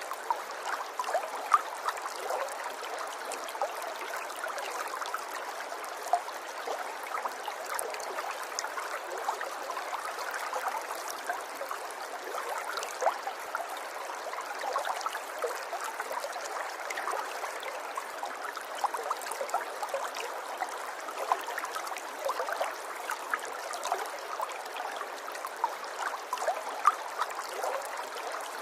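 River water flowing over stones: a steady, soft rush dotted with many small splashes and drips.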